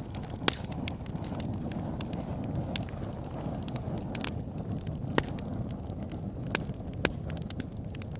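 Wood fire burning in a fireplace: a steady low rush of flames with irregular sharp crackles and pops from the logs, a few louder pops standing out about half a second in, around five seconds and near seven seconds.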